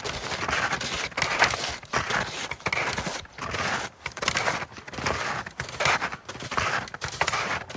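Footsteps crunching in snow at a steady walking pace, one crunch after another.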